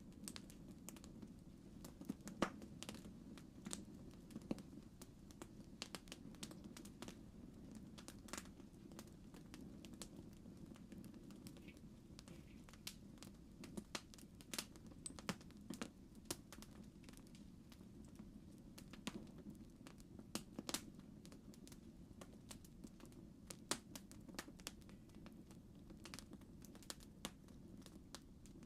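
Campfire crackling: irregular sharp pops and snaps of burning wood, a few louder than the rest, over a faint steady low rumble.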